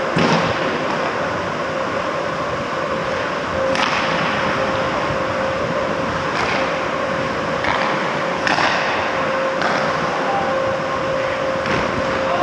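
Ice hockey rink during play: a steady hum with a constant tone, with a few sharp clacks of sticks and puck spread through it.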